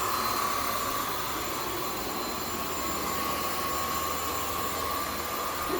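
Zoker A10 Pro cordless stick vacuum running steadily on its highest power setting, a constant motor whine over an airflow hiss as it is pushed over carpet.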